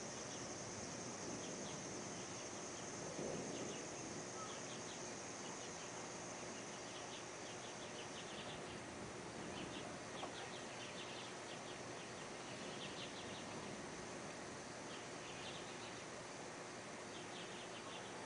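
Faint outdoor insect chorus: a steady high-pitched drone with short bursts of rapid chirping trills every few seconds, over a light hiss.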